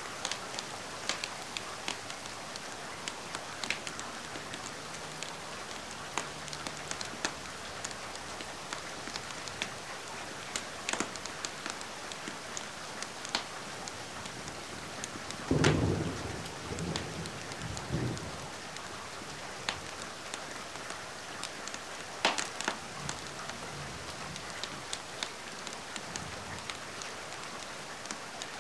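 Steady rain with sharp crackles and pops from a wood fire in a fireplace. About halfway through, a low rumble of thunder rolls for about three seconds.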